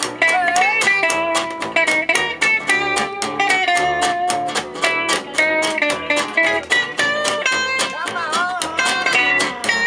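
Gypsy jazz (jazz manouche) band playing live: acoustic guitar strumming a steady chopped beat at about four strokes a second, under a lead melody line with bending, sliding notes.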